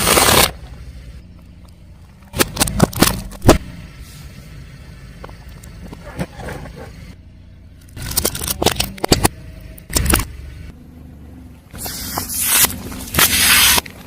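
A car tyre rolling over and crushing objects, heard as three bursts of sharp cracks and crunching over the low rumble of the car.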